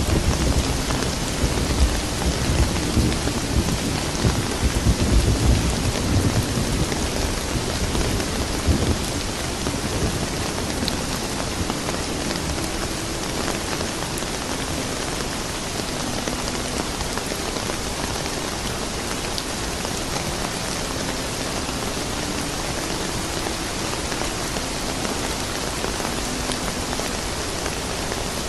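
Steady rain falling, with a low rumble of thunder over the first nine seconds or so that fades away, leaving the even hiss of the rain.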